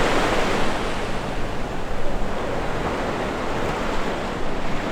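Ocean surf washing onto the beach in a steady rush, with wind rumbling on the microphone.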